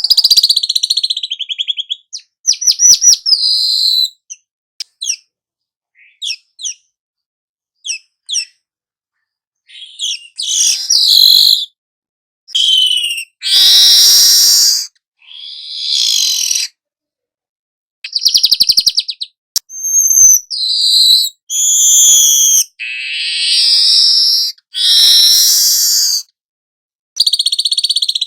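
Songbird song in short loud bursts: high chirps, rapid trains of quick notes and buzzy, wheezy phrases, with brief silences between them.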